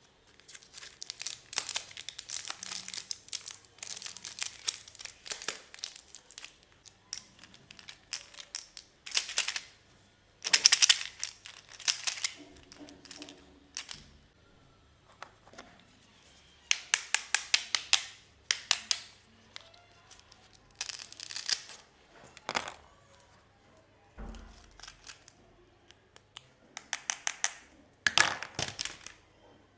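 Packaging wrapper being crinkled and torn open by hand, in repeated crackly bursts with short quiet gaps between them.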